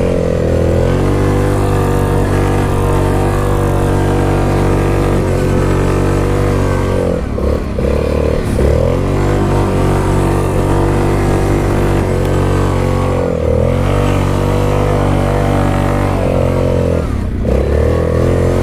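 Yamaha Grizzly 660 ATV's single-cylinder four-stroke engine held at high revs while drifting in snow. The revs dip briefly about four times as the throttle is eased and reapplied.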